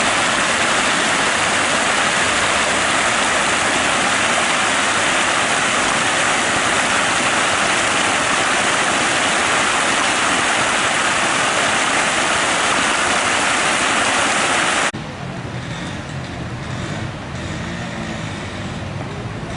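A loud, steady rushing noise that cuts off suddenly about fifteen seconds in, giving way to a quieter, lower hum like a road vehicle.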